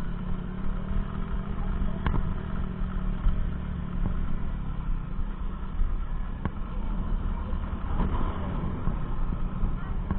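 An engine running steadily with a continuous low rumble, with a couple of faint clicks about two seconds in and past the middle.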